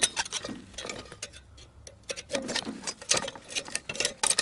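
Irregular metallic clicks, taps and scrapes as the microwave's metal parts are worked loose and prised apart by hand.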